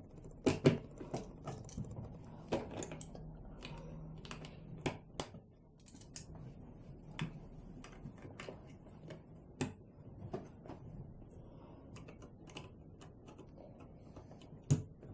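Irregular sharp clicks and taps of plastic electronic-kit parts being snapped onto the board and handled while a lamp circuit is assembled. About a dozen scattered clicks, the loudest about half a second in, near ten seconds and just before the end.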